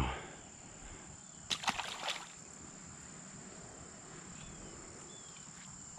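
Insects chirring steadily in a thin high-pitched drone, with a brief scuffing, clattering burst of handling noise about one and a half seconds in.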